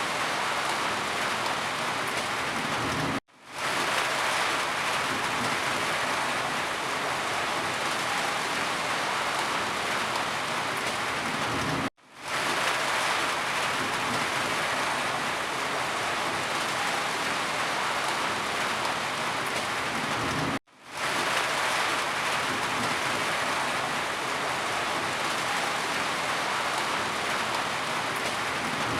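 Steady, heavy rain falling, a dense even hiss. It cuts out briefly three times, roughly every nine seconds, and fades back in each time.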